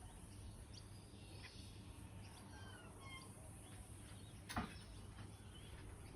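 Faint, scattered chirps and short whistled glides from birds over a steady low background hum, with a single soft click about four and a half seconds in.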